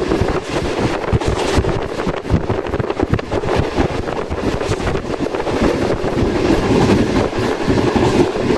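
Passenger train running, heard from on board: a steady rumble with wheels clattering over the rail joints and wind buffeting the microphone.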